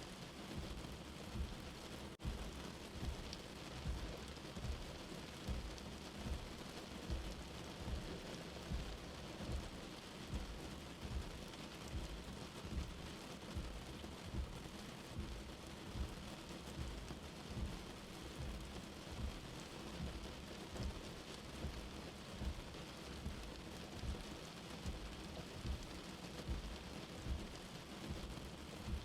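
Steady rain with night insects, the insects a constant high hiss. A soft low tap comes about once a second.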